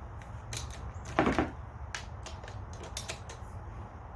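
Socket wrench clicking and knocking irregularly as the chainsaw's bar nuts are tightened down, with a louder clatter about a second in.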